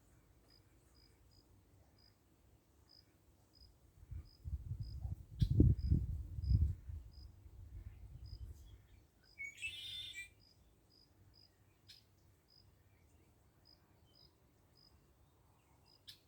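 Cricket chirping in short, high, single pulses about twice a second. About four seconds in, a low rumble rises and dies away by seven seconds; a brief harsh rasp follows near ten seconds.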